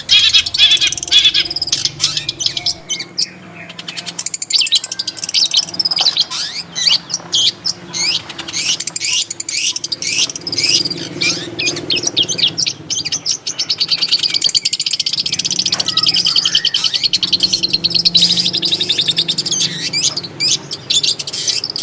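Long-tailed shrike singing: a varied run of quick, sharp chattering notes, many sweeping downward, turning about two thirds of the way through into a fast, even trill.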